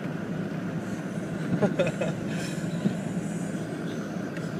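Truck driving through snow, heard from inside the cab: a steady low rumble of engine and road noise, with a few brief squeaks about one and a half seconds in.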